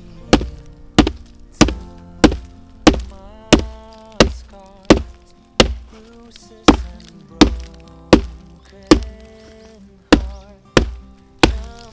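Heavy, even chopping: a blade strikes about sixteen times at roughly one and a half strokes a second, pausing briefly once before the last few chops. Background music plays underneath.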